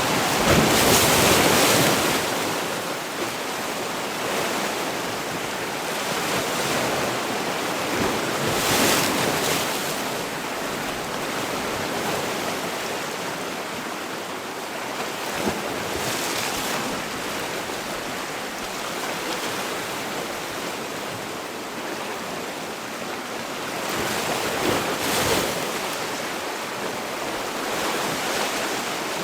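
Sea waves breaking on a shore, a steady wash of surf that swells louder as individual waves break, about four times.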